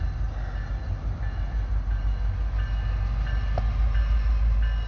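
Approaching CSX diesel train rumbling low and growing louder as it nears the crossing, with the crossing-signal bell ringing faintly in repeated short dings.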